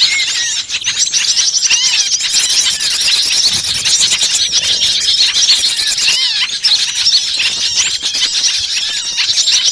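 Mixed chorus of many small songbirds calling at once: rapid, high-pitched, overlapping chirps and scolding calls without a pause, the agitated 'ribut' kind of recording used as a lure to draw small birds in.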